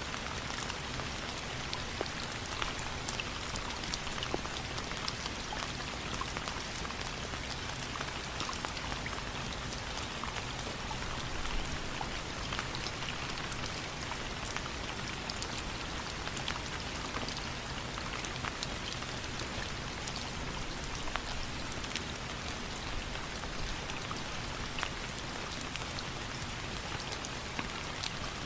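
Steady rain with a crackling fireplace: an even hiss of rain scattered with many small sharp pops and ticks.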